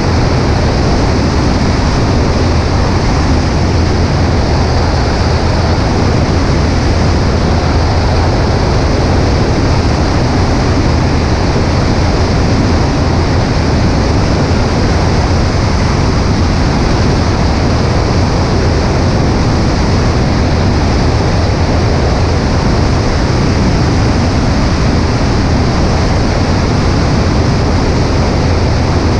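Cessna 140A in flight: a steady drone of engine and propeller buried in heavy wind rush over a wing-mounted microphone, loud and unchanging throughout.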